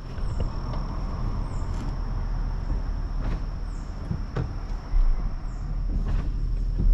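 A vehicle's engine running low and steady while backing up, with a few scattered knocks and a thin steady high-pitched whine behind it.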